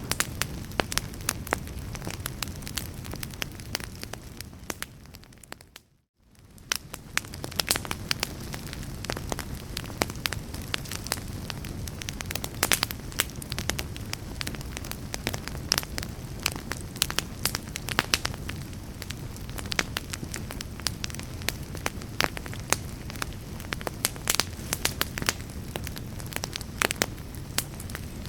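Wood fire crackling with frequent sharp pops over a low steady rumble. About six seconds in, the sound fades briefly to near silence and then fades back in.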